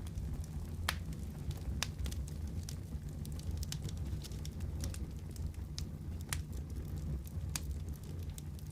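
Wood fire burning in a fireplace: a steady low roar of the flames with irregular sharp crackles and pops, a few louder snaps among many small ones.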